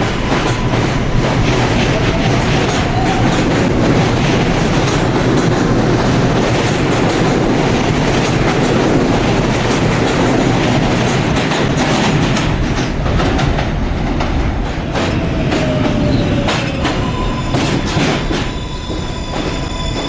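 New York City subway train running through the station, with steady rumbling and the clickety-clack of wheels over rail joints. Near the end it eases off and a thin, high wheel squeal begins.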